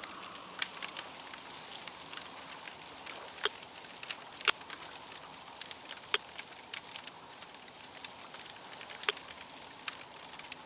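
Wood fire crackling: a steady hiss with frequent small crackles and a handful of sharper pops scattered through.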